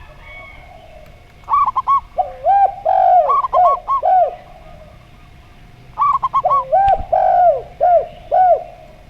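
Zebra dove (perkutut) singing twice: each phrase opens with a quick run of short high coos and then drops into a string of lower, rounded cooing notes. A faint steady hum runs underneath.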